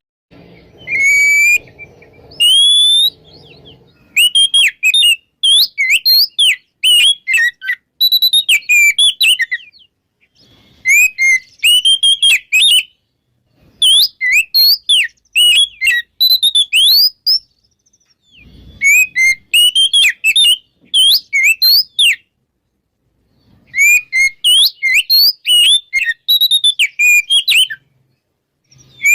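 Oriental magpie-robin singing loud full song (ngeplong): bouts of varied, rapidly rising and falling whistled phrases, separated by short pauses.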